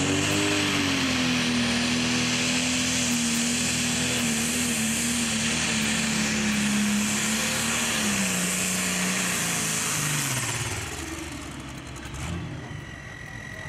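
Pro stock pulling tractor's turbocharged diesel engine running hard under load at steady high revs, with a high hiss above it. About eight seconds in, the engine note falls steadily and it gets quieter: the tractor running out of power as the load builds.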